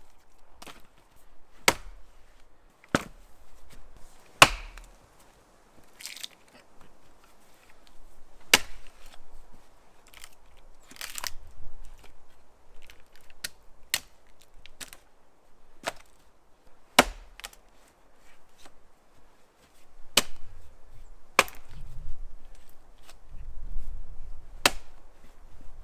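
An axe chopping into wood: about nine sharp strikes spaced unevenly, one to several seconds apart, with fainter knocks between.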